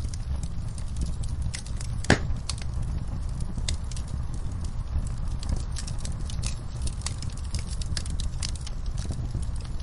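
Fire in a fireplace crackling, with irregular sharp pops over a steady low rumble of flames. One pop about two seconds in is louder than the rest.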